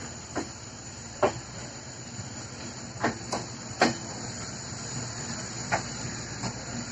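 Passenger train rolling slowly at a station: a few irregular sharp clunks of wheels over rail joints over a steady high hiss.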